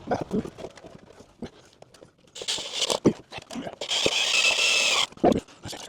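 Cordless drill driving screws into wood in short runs: a brief burst about two and a half seconds in, then a longer run of about a second with a steady whine. Light knocks and handling sounds come between the runs.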